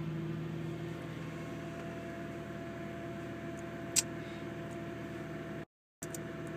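Nissan GT-R R35's twin-turbo 3.8-litre V6 idling steadily, a smooth even hum, with a single sharp click about four seconds in. The sound drops out completely for a moment near the end.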